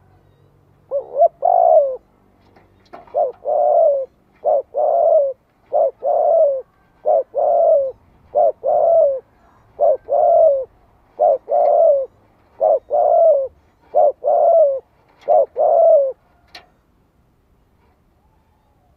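Spotted dove cooing: about eleven two-part coos, each a short note followed by a longer falling one, repeated a little under once every second and a half, stopping near the end.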